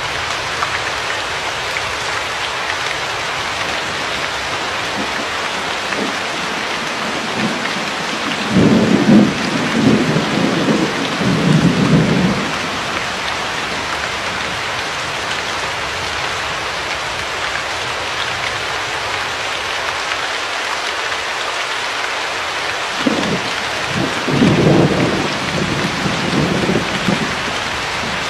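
Steady, heavy rain falling, with two low rolls of thunder, one about a third of the way in and another near the end.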